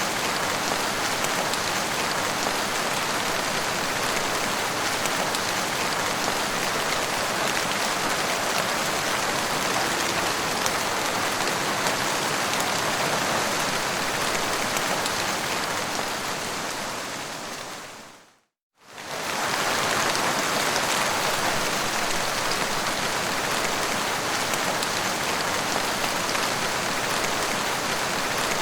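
Steady, dense rainfall. About two-thirds of the way through, it fades out to a moment of silence and fades back in, like the seam of a looped recording.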